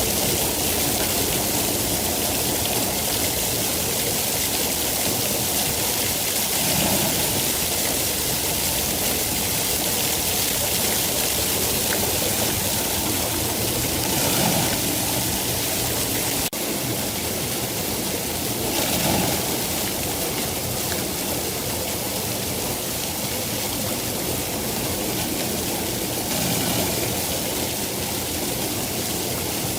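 Steady rain falling: a dense, even hiss with small swells every few seconds.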